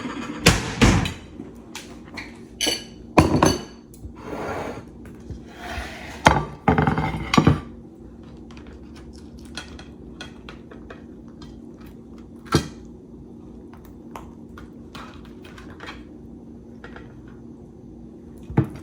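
Dishes and utensils knocking and clinking in a kitchen as sandwiches are lifted off a tray onto a plate: a run of sharp clatters over the first several seconds, then a single knock in the middle and another near the end, over a faint steady hum.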